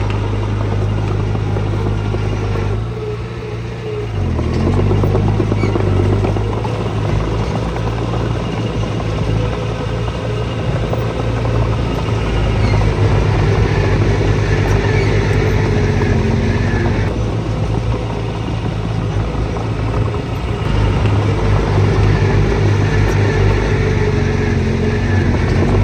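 Heavy diesel engine of earthmoving machinery running steadily under load, easing off briefly about three seconds in and then working harder again.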